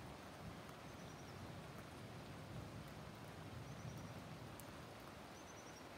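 Faint outdoor ambience of steady hiss with a low rumble swelling in the middle. A small bird gives a quick run of four or five high chirps, three times.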